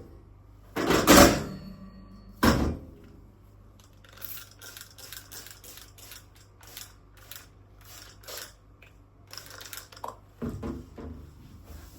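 Clatter of dishes and utensils: two louder knocks near the start, then a run of light clicks and taps, and another knock near the end.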